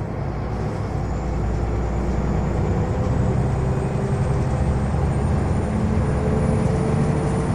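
Scania L94UB bus engine pulling steadily, growing louder over the first few seconds, with a faint high whine that rises slowly in pitch.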